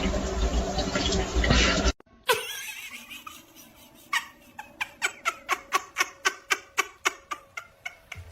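A fast run of short laughing bursts, about four a second, quickening and fading toward the end. It follows an abrupt cut about two seconds in from a dense, noisy clip with a low hum.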